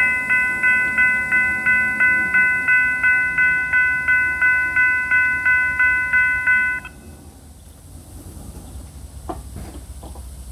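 Railroad grade crossing bell ringing, about three strikes a second, that stops abruptly about seven seconds in, leaving a low rumble with a few faint knocks.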